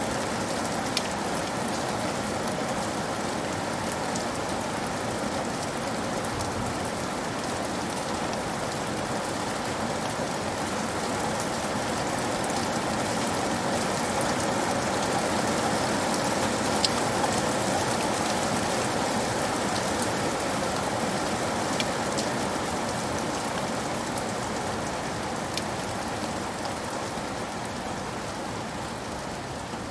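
Steady rain falling, a dense even patter with scattered individual drops ticking; it swells slightly midway and eases a little near the end.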